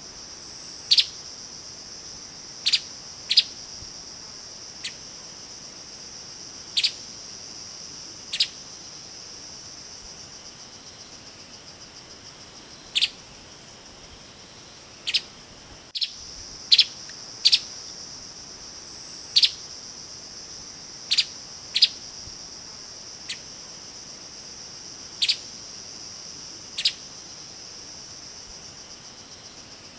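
Streaked spiderhunter giving short, sharp single calls, about seventeen at irregular intervals, some close in pairs. A steady high-pitched drone runs beneath them.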